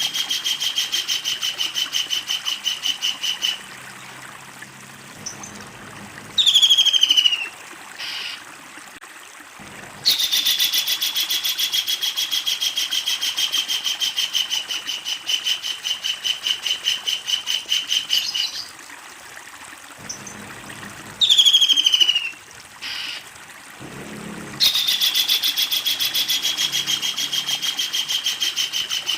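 Kingfisher calling: long, fast runs of sharp repeated notes that slide slightly down in pitch, the long cackle. The runs come three times, broken by quieter gaps, each gap with a short, loud call that falls steeply.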